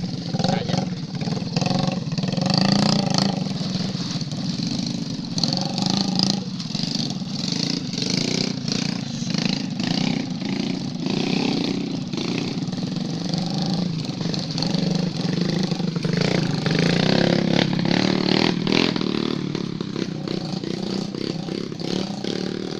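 Motocross bike engine running, its loudness swelling and dipping with the throttle, with frequent short knocks and rattles over it.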